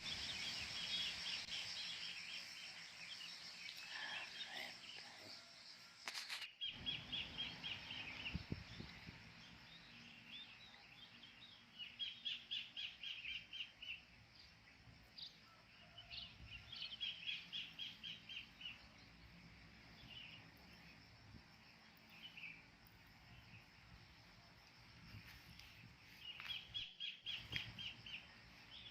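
Kingfisher calling in repeated bouts of fast, rhythmic notes, each run lasting about two seconds and coming again several times, over faint outdoor background noise.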